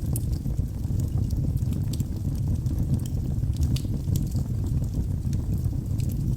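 Wood logs burning in a fireplace: a steady low rumble of flame with scattered sharp crackles and pops, several a second.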